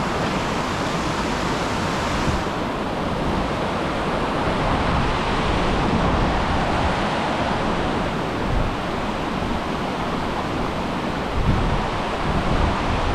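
Steady rush of flowing water from a waterfall-fed creek, an even unbroken noise, with a few brief low bumps near the end.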